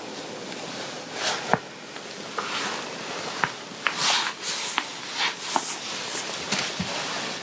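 Fabric of a garment rustling as it is handled and adjusted, with several light clicks and taps along the way.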